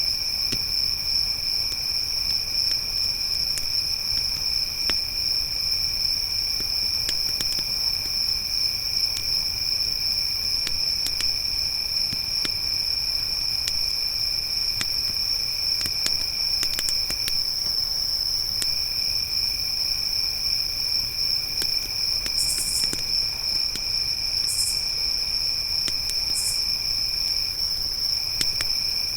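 Crickets trilling without a break in a high, steady chorus, with a second, lower insect trill underneath that pauses briefly twice. Scattered soft crackles and pops from a campfire run through it, and three short, higher buzzes come in the last third.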